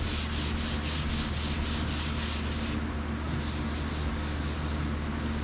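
Hand sanding paint with 220-grit sandpaper for a scuff: back-and-forth strokes about four a second, easing into a steadier rub about three seconds in. A steady low hum runs underneath.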